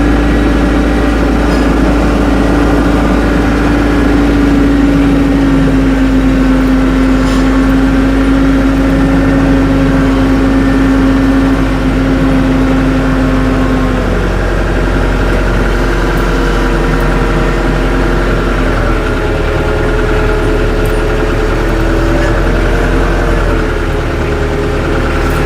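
Tractor engine running at a steady speed, with a slight change in its pitch about halfway through and again near the end.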